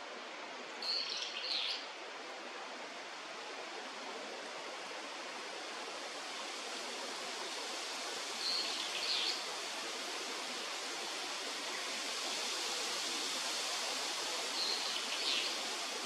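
Steady rushing of flowing water, with three short bursts of high bird chirps: about a second in, about eight and a half seconds in, and near the end.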